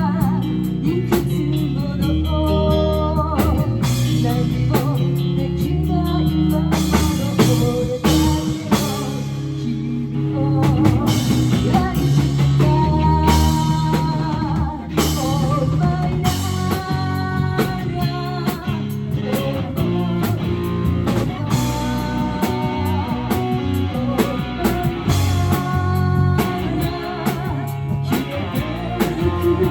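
Live rock band playing: electric guitar, bass and drum kit, with a sung vocal line.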